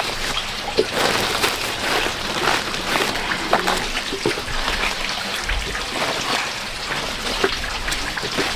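Water trickling and splashing, with many small irregular drips and splashes throughout.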